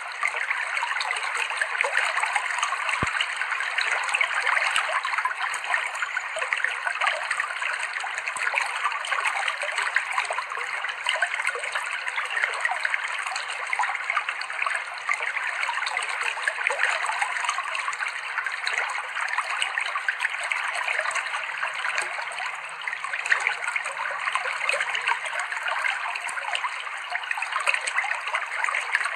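Clear river water running steadily over rocks: a dense, even babble and trickle of a shallow stream, with one small click about three seconds in.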